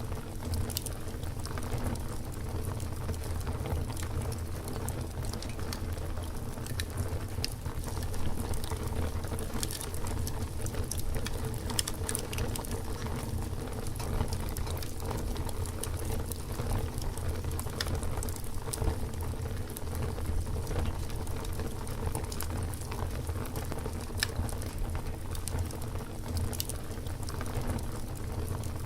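Campfire crackling, with frequent sharp pops and snaps over a low steady rumble.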